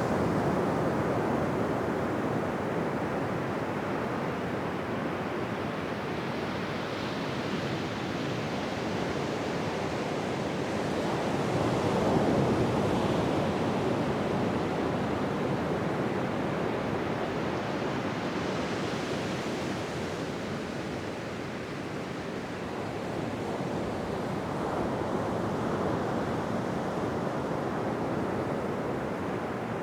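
Ocean waves breaking and washing on a beach, a steady surf that swells and eases slowly, with the strongest surge about twelve seconds in and another near the end.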